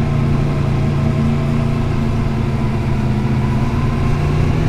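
Motorcycle engine pulling steadily in first gear up a steep pass, with a steady note that rises a little near the end as it picks up revs.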